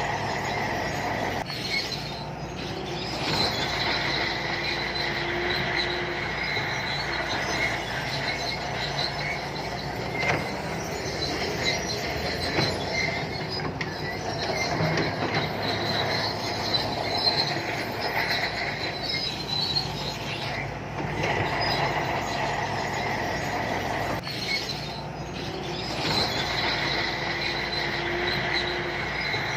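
Shantui crawler bulldozer working: its diesel engine runs steadily under load while the steel tracks squeal and clank.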